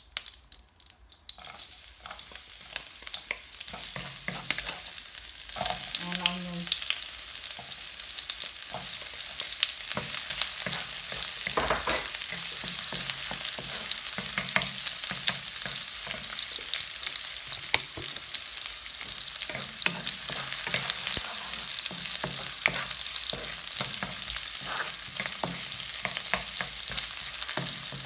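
Chopped garlic sizzling in hot oil in a nonstick wok while a wooden spatula stirs and scrapes it. The sizzle builds over the first few seconds and then holds steady, with frequent light clicks from the spatula.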